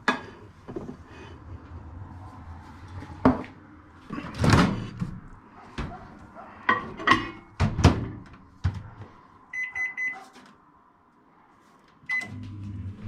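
Microwave oven being loaded and started: several clunks and clatters of the door and dish, then a short run of keypad beeps about ten seconds in. A last beep comes near the end, and the oven starts running with a low steady hum.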